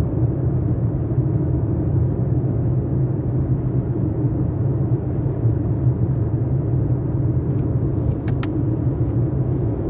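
Motor City Wash Works car wash tunnel machinery running with a steady low hum, with a few short clicks near the end.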